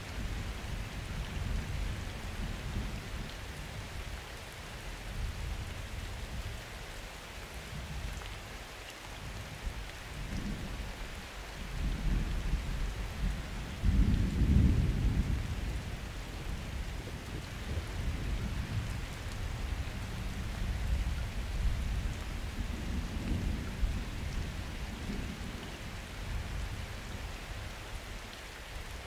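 Steady rain falling, with distant thunder rumbling underneath in rolling waves, the strongest peal about halfway through.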